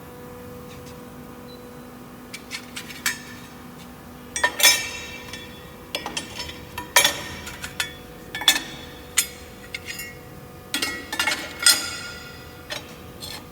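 Steady hum from an automatic welding machine, with irregular sharp metallic clicks and clinks, some ringing briefly, starting about two seconds in and coming in loose clusters until near the end.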